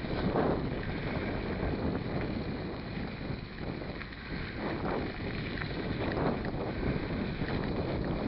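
Wind rushing over the microphone of a camera riding on a moving mountain bike, a steady low rumble. Louder rustling surges come near the start and again about five and six seconds in, from the bike rattling over the dirt trail.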